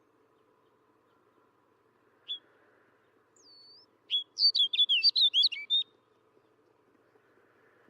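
Snow bunting singing: one short note, then a quick warbling song phrase of about a dozen rapid high notes lasting under two seconds, near the middle.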